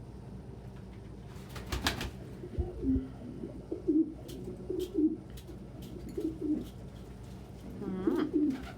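Domestic pigeon cooing, a cock courting a hen: a run of low, repeated coos. There are a few brief sharp clicks about two seconds in and again near the end.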